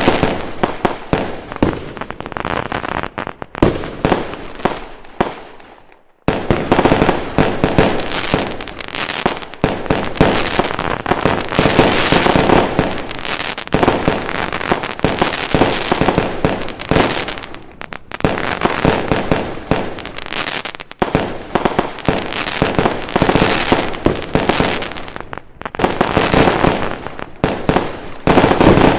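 Fireworks going off in a dense, continuous barrage of bangs and crackling, with a short lull about six seconds in before the barrage starts up again abruptly.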